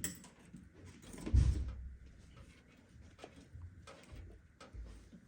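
Handling noise from PC case fan cables being routed and plugged in: a dull thump about a second and a half in, then a few light plastic clicks and rustles.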